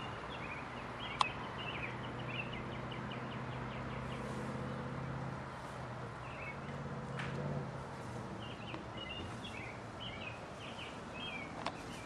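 Outdoor ambience with a small bird singing quick twittering phrases, once at the start and again in the second half, over a low engine-like hum that fades out about seven seconds in. A single sharp click about a second in.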